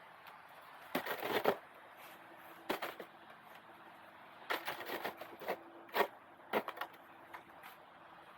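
Roof rake scraping and dragging through packed snow, in several short crunching bursts about a second apart.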